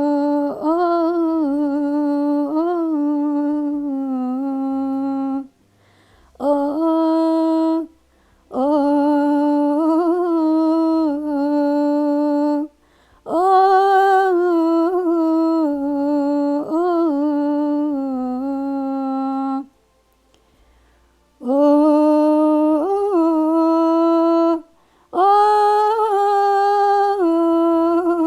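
A solo voice hums wordless melodic phrases, holding notes with small ornamental turns. It sings about six phrases broken by short pauses, demonstrating the modulation between maqam Saba and maqam Sikah.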